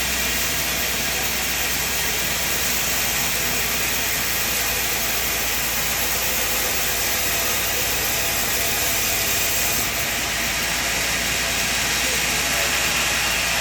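Sawmill machine running with a loud, steady, even noise that does not change.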